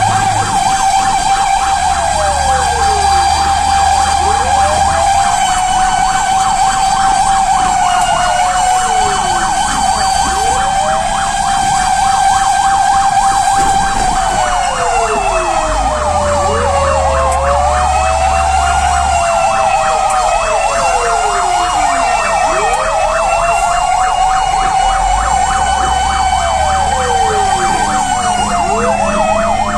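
Fire engine running with its sirens on throughout: several sirens sound at once, a steady high tone with a rapid warble, and a tone that drops sharply in pitch again and again, about every two seconds. A low hum comes and goes underneath.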